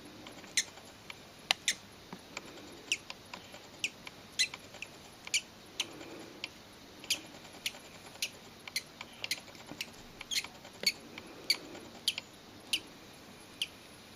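Newly hatching parrot chick peeping: short, high squeaks, irregularly about one or two a second.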